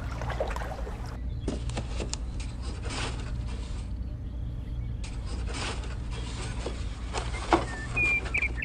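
Light scraping and clicking of hands working damp sand and a plastic tray, coming and going over a steady low hum.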